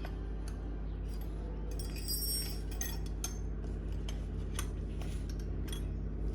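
A steady low hum with scattered sharp clicks and short metallic clinks, the clinks bunched about two seconds in.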